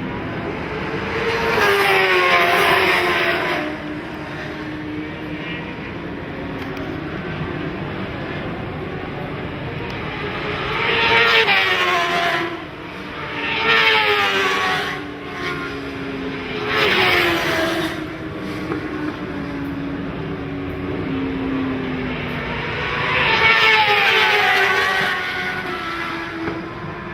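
Racing motorcycles going past at speed, one after another. There are about five loud pass-bys, each engine note dropping sharply in pitch as the bike goes by. Between them other bikes can be heard running around the track.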